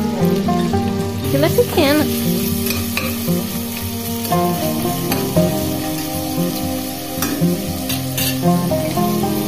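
Diced bacon sizzling as it fries in oil in a stainless-steel pot, stirred now and then with a spoon, over background music.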